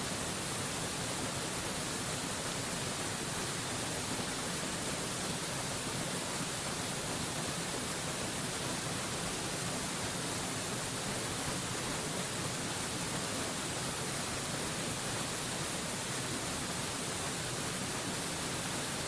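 Waterfall rushing in a steady, unchanging hiss, heavy in the high end, with no breaks or separate splashes.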